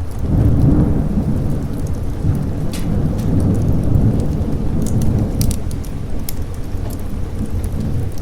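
A long rolling thunder rumble over steady rain. It swells about half a second in, peaks again midway, then eases off. Sharp crackles from a burning fireplace are scattered throughout.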